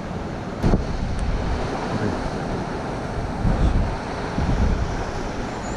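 Mountain stream water rushing steadily, with wind buffeting the microphone in uneven low gusts. A single sharp click comes about a second in.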